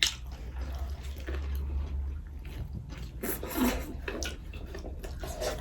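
Close-up eating sounds: biting into and chewing homemade chicken rolls, with scattered small wet clicks and smacks.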